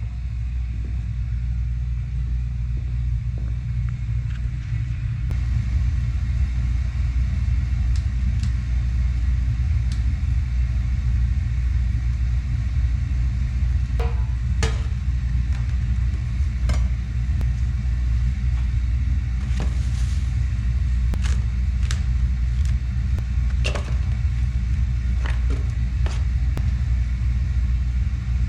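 A steady low rumble, with scattered sharp clicks and knocks from about halfway through.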